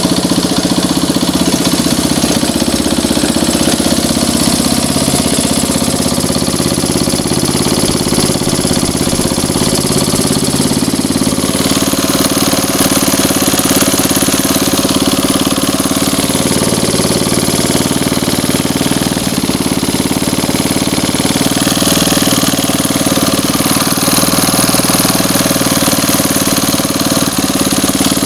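Engine running steadily at idle on a test run after repair, with a slight change in tone about eleven seconds in.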